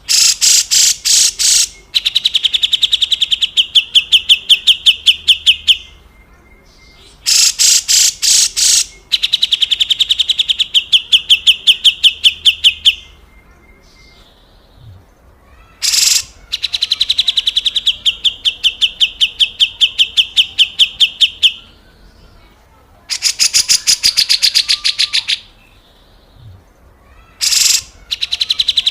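Grey-cheeked bulbul (cucak jenggot) giving its harsh rattling 'besetan kasar' calls. There are about five phrases of a few seconds each with short gaps between them. Each phrase opens with a few loud rasping bursts and runs on as a fast rattle of rapid notes.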